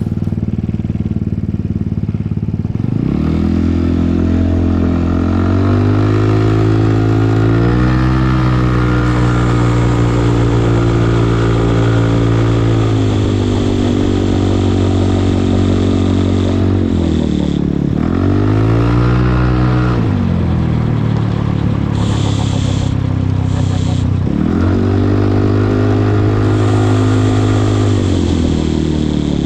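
Yamaha Cygnus X scooter's single-cylinder four-stroke engine running while ridden, pitch rising as it speeds up about three seconds in, holding, then easing off and picking up again several times.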